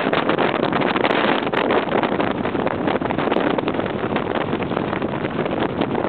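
Storm-force wind buffeting the microphone: a loud, steady rush full of rapid crackles.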